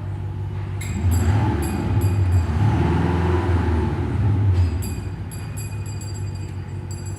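Audi Q7's THOR active electronic exhaust sound generator playing a synthesized engine note: it revs up about a second in, holds high with crackles, and eases back to a steadier drone near the end.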